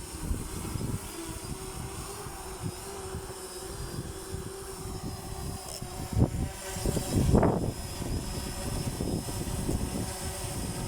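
DJI Phantom 4 quadcopter's propellers humming steadily with a faint high whine, under strong wind buffeting the microphone in low rumbling gusts. The gusts are loudest twice, a little after the middle.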